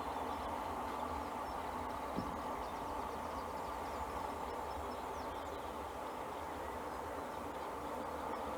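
Steady outdoor background rumble and hiss with a few faint, distant bird chirps.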